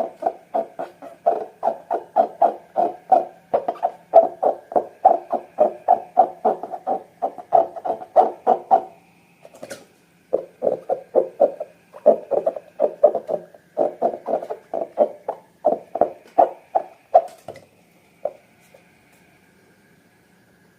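Slime being worked by hand, squished and poked in a quick, steady rhythm of about three to four squelches a second. It pauses briefly about halfway through and stops a few seconds before the end.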